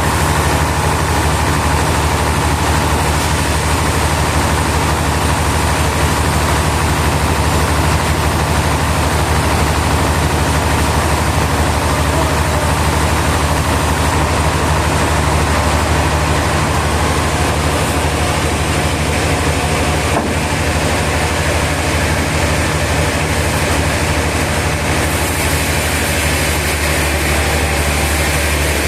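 Sawmill machinery running steadily: an unchanging low engine drone with a noisy hiss over it.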